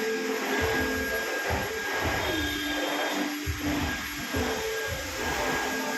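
Dyson vacuum cleaner running on carpet: a steady motor hiss with a thin high whine, the low rumble surging unevenly as the head moves.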